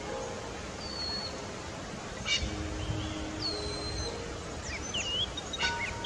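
Outdoor background hiss with scattered short, high bird chirps and whistles, including two sharper calls about two and five and a half seconds in, over faint held tones of background music.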